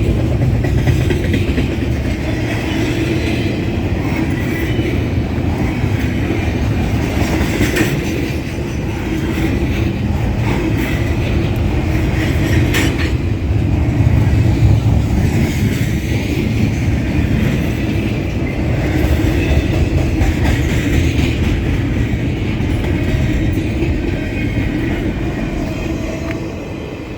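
Freight cars of a Union Pacific manifest train rolling past, their steel wheels clattering over the rail joints with occasional clanks. The sound eases off near the end as the tail of the train goes by.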